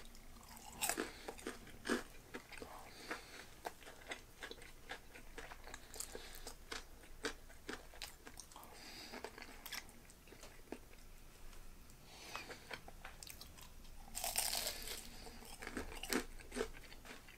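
Close-up chewing of freshly fried, crisp-battered karaage (Japanese fried chicken): many small crisp crunches and crackles as the coating is bitten and chewed, with a louder spell of crunching about fourteen seconds in.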